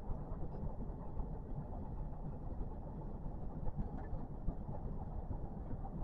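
Kintetsu electric commuter train running along the track, heard from inside the car as a steady low rumble of wheels and running gear.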